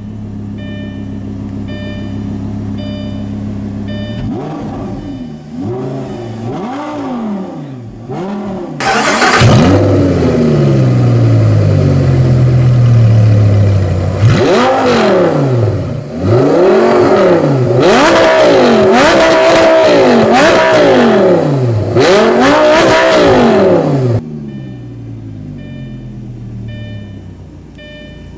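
Lamborghini Gallardo LP560-4's V10 through a titanium X-pipe valvetronic exhaust, idling and then revved in repeated blips that rise and fall. From about nine seconds in the exhaust is much louder, with quick successive revs, until it drops back to a steady idle a few seconds before the end.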